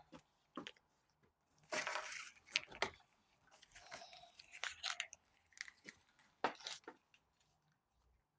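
Small plastic toys and props being handled: scattered light clicks and taps, with a longer rustle about two seconds in.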